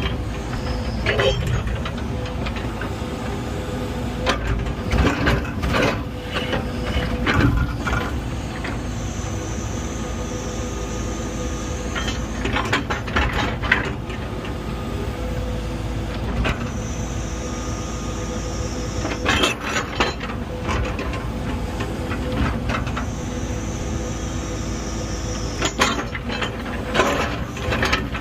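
Earthmoving machine's diesel engine running steadily while it back-drags soil in grading, with bursts of metallic clanking several times and a high whine that comes and goes.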